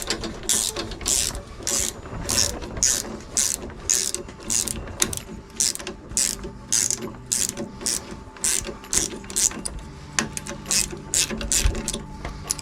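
Ratchet clicking in a long run of short repeated strokes, about two a second and a little quicker near the end, as a fastener holding the mower's handlebar cable is worked loose.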